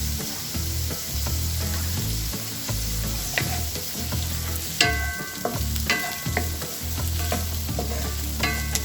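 Garlic, onion, chorizo and carrots sizzling in a hot pan as they are stir-fried, the stirring utensil clicking and scraping against the pan. Three sharper knocks of the utensil on the pan ring briefly, about five, six and near nine seconds in.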